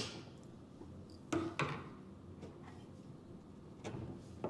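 A few light knocks and clicks from handling a cabinet drawer glide against the cabinet frame: two close together about a second and a half in, and two fainter ones near the end.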